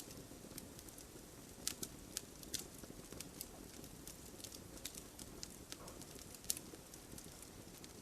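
Wood fire burning in a fireplace, the logs crackling: irregular sharp pops and snaps over a soft low background, with a few louder pops, one near the end.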